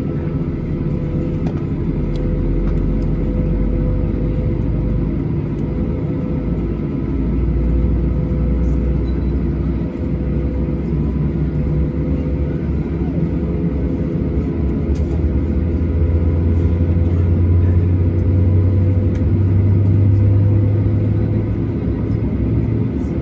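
Steady cabin noise inside a Boeing 737-800 on the ground before takeoff: a continuous hum with steady tones over a deep rumble, which swells about two thirds of the way through and then eases.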